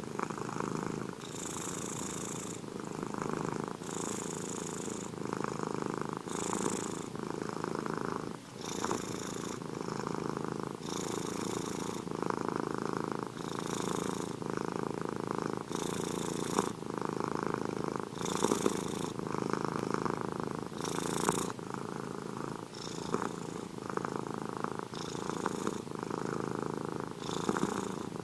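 Domestic cat purring steadily and close up, the purr changing with each breath in and out about every two seconds.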